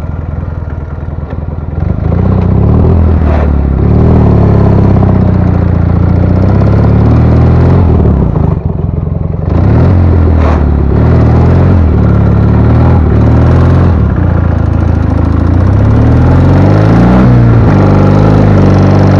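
Ural motorcycle's IMZ-8.103.10 flat-twin engine under hard throttle while riding through snow. Its pitch repeatedly climbs and drops with throttle and gear changes, getting louder about two seconds in and briefly easing off around nine seconds in.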